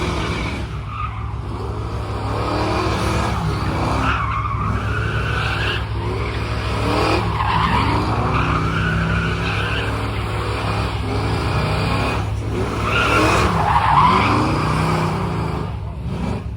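Car engine revving up and falling back several times over a steady low rumble, as the car is driven and swung through a tight spot.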